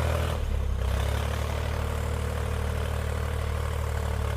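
Backhoe engine running steadily with a low drone while it digs through deep snow.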